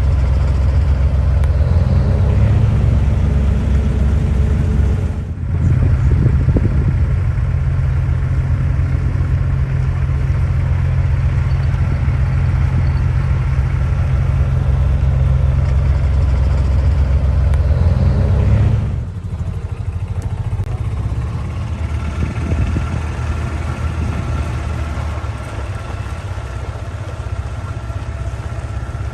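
Diesel semi truck engine pulling away under load, climbing in pitch and then dropping off briefly twice, as in gear changes, somewhat quieter after the second.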